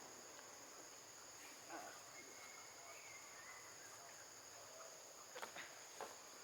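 Faint, steady high-pitched insect chorus droning, with a few faint sharp clicks near the end.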